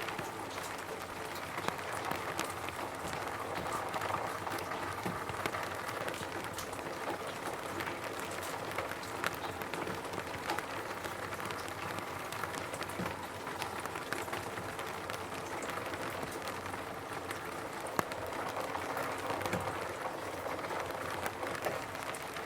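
Rain falling steadily on a roof: an even hiss with many individual drops tapping, one sharper drop standing out near the end.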